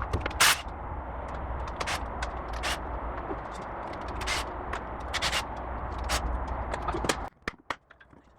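Irregular metallic clicks, knocks and scrapes of work on a car's rear differential, over a steady low hum. The hum and most of the clatter stop suddenly about seven seconds in.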